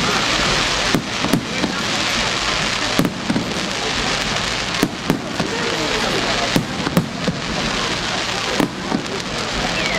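Aerial fireworks going off: a dense, continuous crackle like rain on a roof, punctuated by sharp bangs roughly every second.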